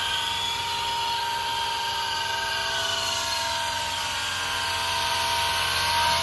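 Small electric rotor motors of a toy 3.5-channel gyro RC helicopter whining steadily in flight, the pitch wavering slightly as the throttle changes.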